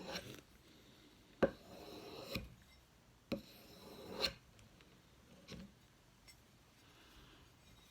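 Knife blade being drawn along a strop to touch up an already sharp edge: three slow scraping strokes of about a second each, each starting with a tap, and a fainter one about halfway through.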